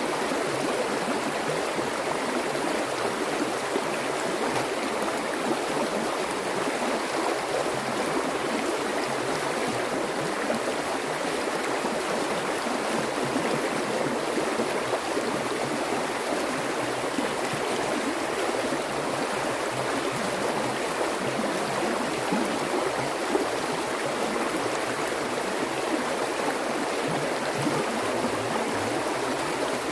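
Water flowing in a small stream, a steady rush and gurgle that stays even throughout.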